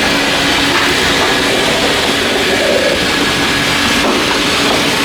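Car wash foam brush running: a steady loud hiss of foamy water pumped through the brush as it scrubs, with a faint steady hum from the bay's pump.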